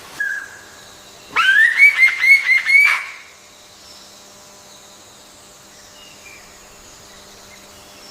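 A songbird singing: a brief whistle, then a loud phrase that rises and breaks into about five quick repeated whistled notes. Fainter bird calls follow.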